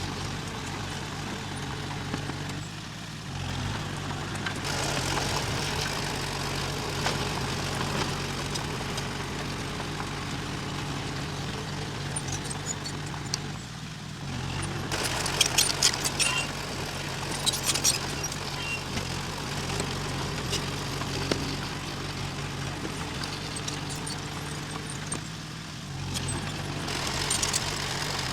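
Diesel engine of a crawler bulldozer running steadily, its load easing and picking up again every ten seconds or so, with bursts of rattling metal clanks from the tracks and blade.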